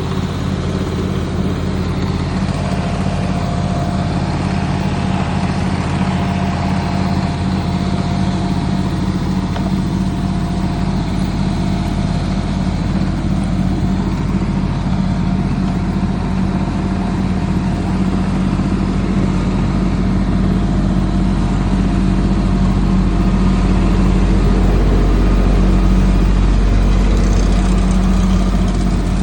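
1/8-scale ride-on model locomotive running, a steady low engine drone that grows a little louder in the last several seconds.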